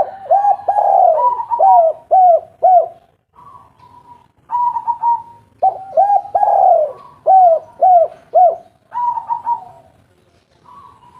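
Spotted dove cooing: two full phrases, each a series of short, arched coos, followed by a shorter call near the end.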